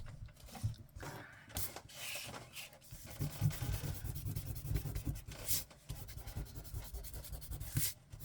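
An eraser rubbed quickly back and forth over an old paper card, scrubbing off ink smudges. The strokes are scattered at first and run on steadily from about three seconds in.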